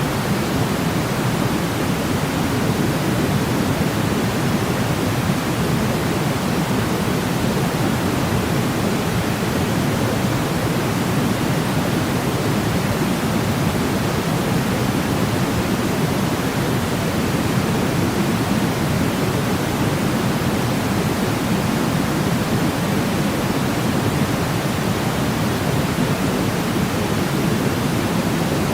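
Steady white noise for sleep: an even, unbroken hiss weighted toward the low end, like pink noise, with no change in level or pitch.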